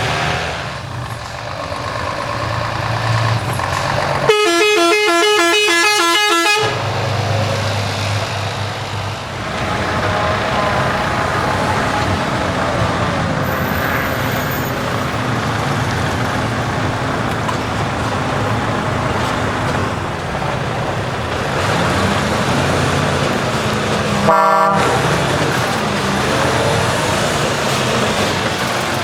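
Heavy trucks' engines running as they drive past. A loud truck horn sounds for about two seconds a few seconds in, and a short horn blast comes near the end.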